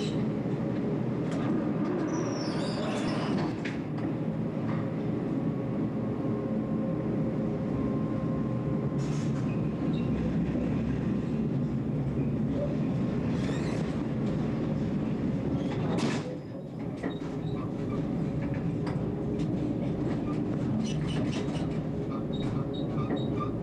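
Tram running on street track, heard from inside the driver's cab: a steady rumble with a faint motor hum. There are brief high wheel squeals, a sharp knock about sixteen seconds in, and clicking over rail joints and points near the end.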